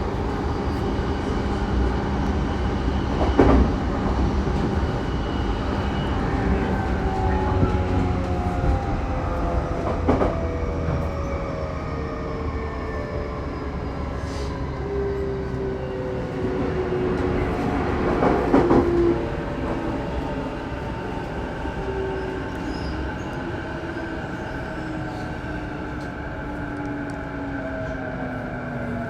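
Saikyo Line electric commuter train running, heard from inside: steady wheel-and-rail rumble and a whine from the traction motors that falls slowly in pitch as the train slows. A few sharp clatters from the wheels on rail joints come at about 3, 10 and 18 seconds in.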